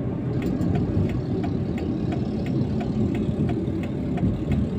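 Steady low rumble of a car's engine and tyres heard from inside the cabin while driving, with faint ticking about three times a second.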